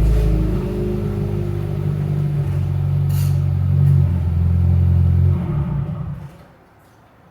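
Subaru WRX's flat-four engine idling steadily after a cold start, then switched off about five and a half seconds in, its sound dying away within a second.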